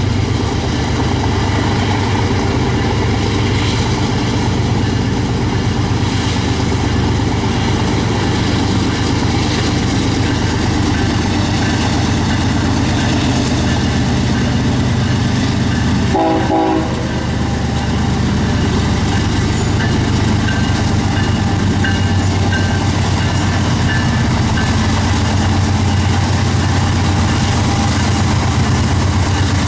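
Diesel train locomotives running steadily close by, with a deep, continuous engine hum. A brief horn note sounds about halfway through.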